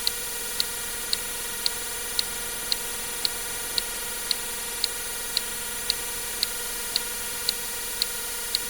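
Short, even ticks about twice a second over a steady hiss.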